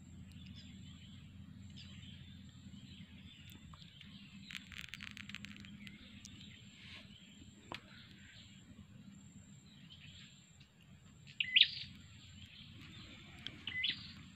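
Birds chirping and calling over a faint steady background, with a quick run of high chirps about five seconds in and a short sharp call about eleven seconds in, the loudest sound, followed by another near the end.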